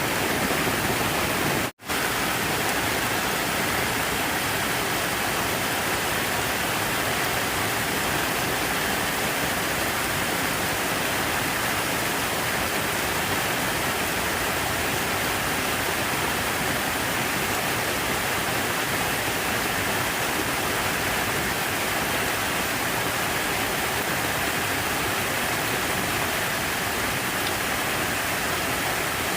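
Steady rush of falling or flowing water, an even hiss with no breaks apart from a split-second cut-out a little under two seconds in.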